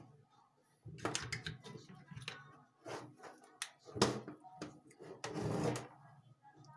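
Small objects handled on a work surface: a series of clicks and knocks, with a short scraping rustle about five seconds in.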